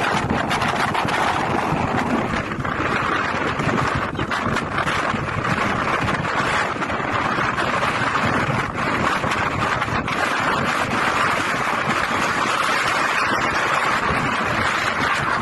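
Hurricane-force wind blasting across the microphone: a loud, steady rushing roar with no letup.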